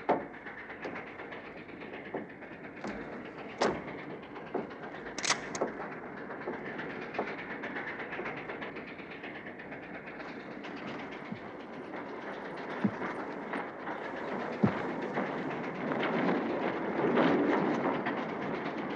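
Railway carriage rolling along the track: a steady rumble with scattered clicks and knocks from the wheels and rail joints, heard from inside the car and growing somewhat louder near the end.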